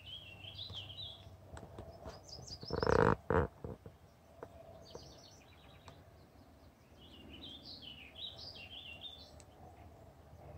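Songbirds singing outdoors: a warbling phrase at the start, a quick run of higher notes about five seconds in, and another warbling phrase near the end. Two loud thumps about three seconds in.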